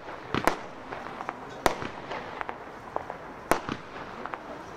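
Crossette firework battery firing: sharp cracks every second or so as the shots split, with smaller pops in between.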